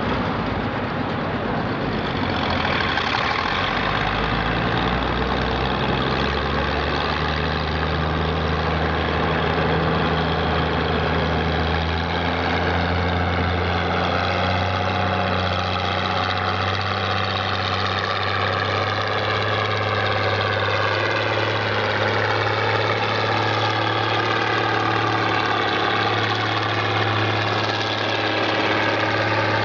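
Farm tractor's diesel engine running hard under load while pulling a weight sled. It runs steadily, and its pitch climbs slowly through the second half.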